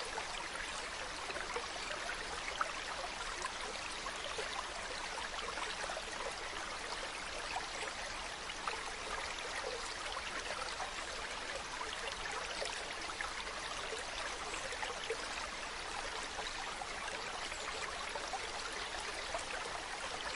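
Mountain stream running water, a steady rushing babble flecked with small trickling splashes.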